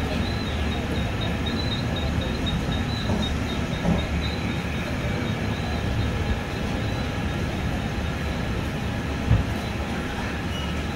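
Train running on the rails: a steady rumble with a few brief knocks, the loudest about nine seconds in.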